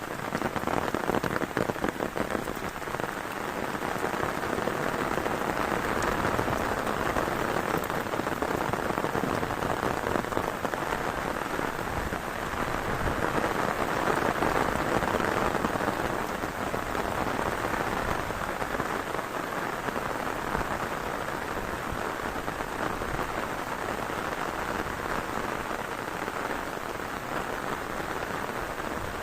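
Heavy rain falling steadily, a dense patter of drops that swells a little about halfway through.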